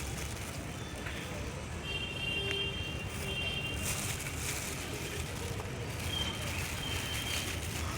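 Steady low rumbling background noise, with a few faint, thin high whistles that each last under a second.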